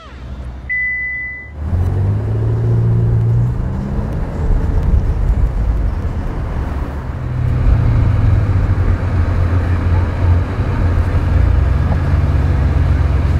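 Ferrari California T's 3.8-litre twin-turbo V8 coming in loudly about two seconds in, its revs rising, then running on as the car drives off. A short high beep sounds just before it.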